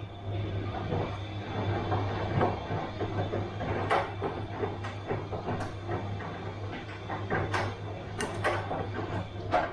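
Bosch washing machine running a wash, with the drum tumbling the load: a steady low hum under irregular rustling and knocking, with a few sharp clicks. The tumbling sound drops away near the end.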